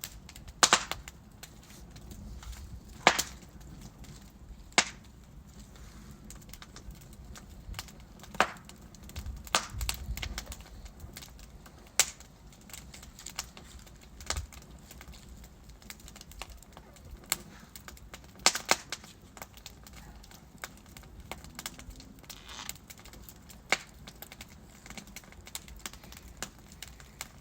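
Wood fire crackling in a fireplace: burning logs give irregular sharp pops and snaps, a few much louder than the rest, over a soft, steady hiss and low rumble from the flames.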